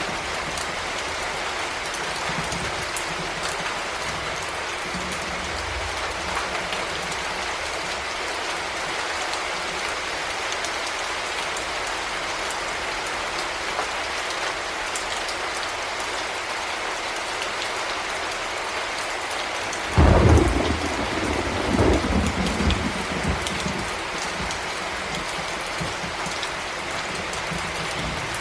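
Heavy rain falling steadily. About two-thirds of the way through, a sudden thunderclap cracks and rumbles on in a few swells for several seconds before the steady rain returns.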